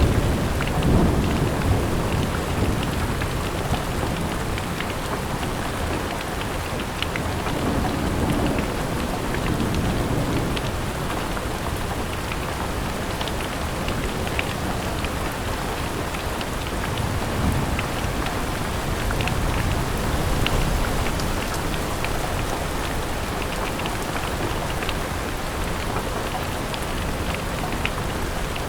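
Steady rain pattering on a window, with low rumbles of thunder swelling and fading a few times.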